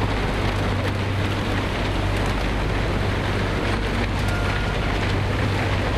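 Rushing flash floodwater: a steady, dense wash of noise with a deep rumble underneath.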